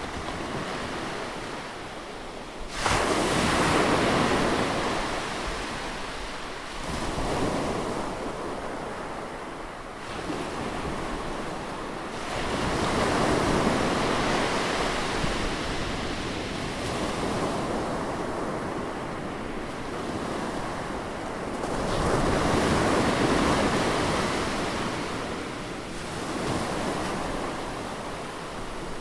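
Ocean waves breaking on the shore, one after another: each crashes in suddenly and washes out over a few seconds, the loudest about three seconds in and again a little past twenty seconds.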